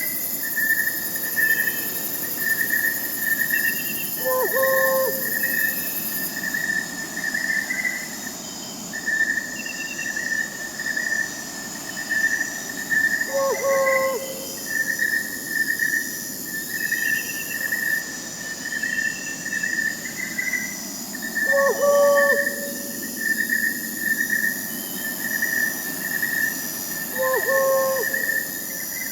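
Night forest soundscape: crickets and other insects chirping steadily in a pulsing high trill, with a short owl hoot that comes four times, several seconds apart.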